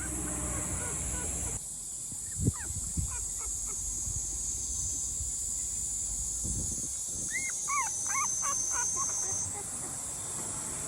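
Several short, high, arching animal calls in two bursts, about two seconds in and again near the end, over a steady high insect-like buzz. A couple of soft thumps come early on.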